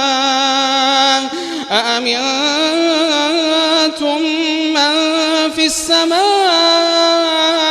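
A man's voice reciting the Quran in melodic tajweed style, holding long ornamented notes that waver in pitch, with short breaks about a second and a half in and near six seconds.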